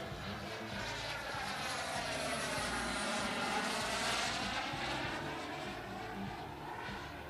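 JetCat P80SE model turbine of a BVM Bandit RC jet making a pass: a steady jet whine and rush that grows loudest about four seconds in, then fades as the jet moves away.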